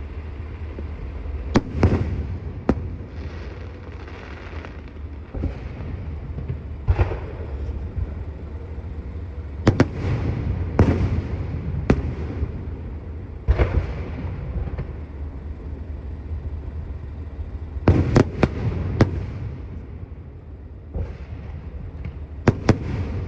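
A fireworks display: irregular sharp bangs of shells bursting, sometimes several in quick succession, with crackling between them over a steady low rumble.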